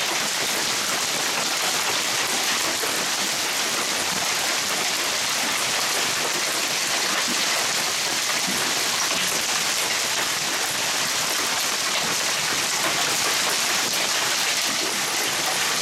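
Hail storm: hail and rain falling hard, a steady dense hiss of countless small impacts that holds evenly throughout.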